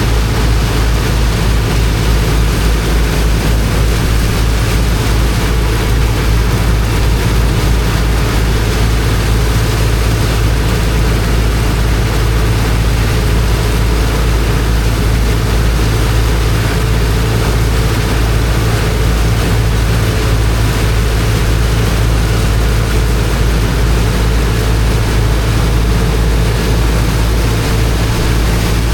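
High-pressure water pump's engine running at a steady pace, with a continuous rush of water from the jet.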